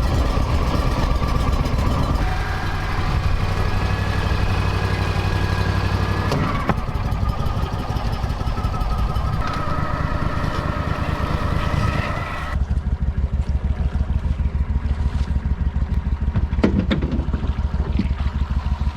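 Pro Drive mud motor running hard, its engine note shifting as it is worked. About two-thirds of the way through, the sound changes abruptly to a lower, evenly pulsing chug.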